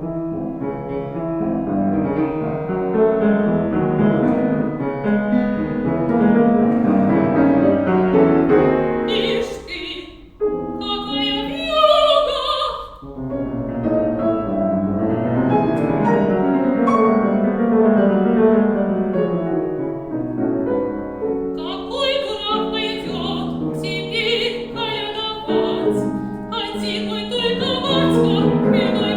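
Operatic soprano singing with piano accompaniment: the piano plays alone at first, the soprano sings a short phrase about nine seconds in, and she comes back in about twenty-two seconds in over the piano.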